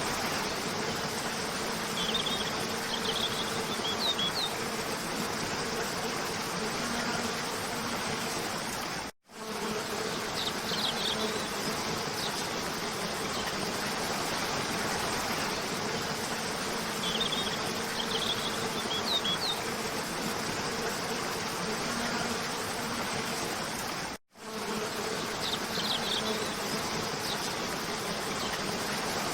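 Cascading waterfall rushing steadily, with short clusters of spring bird chirps every several seconds and a low steady hum underneath. The sound cuts out for a split second twice, where the recording loops.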